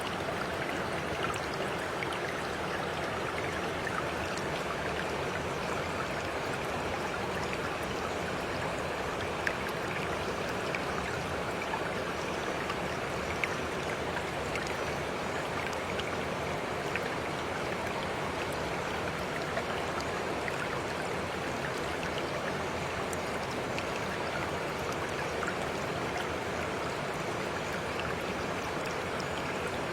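Water flowing steadily in a stream, an even rushing with a few faint drips and splashes.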